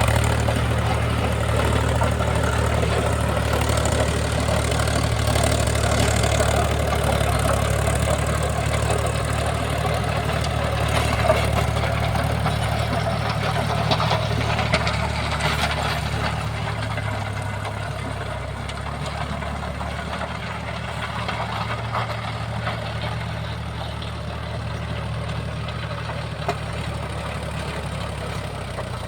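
Mahindra tractor's diesel engine running steadily under work, with a few sharp knocks about halfway through. It gets slightly quieter in the second half.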